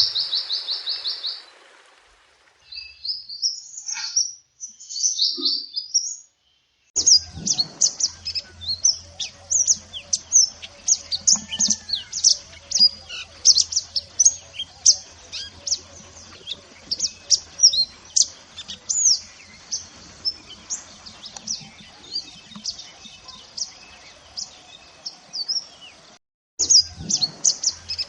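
Mantenan gunung song: a fast high trill at the start, a few scattered chirps, then a long run of quick, sharp high chirps from about a quarter of the way in, with a faint low hum underneath.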